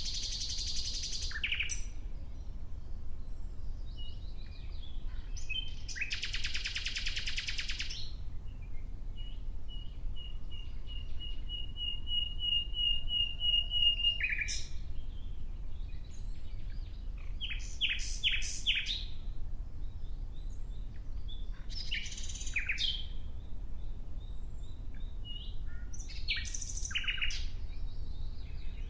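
Nightingale singing in separate phrases a few seconds apart: harsh buzzy bursts, a long run of repeated whistled notes that swells louder, and quick rattling trills.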